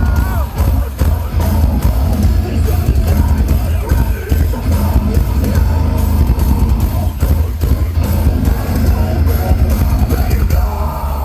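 Live metalcore-electronic band music heard through the arena PA, with a pounding bass-heavy beat, distorted guitars and some shouting.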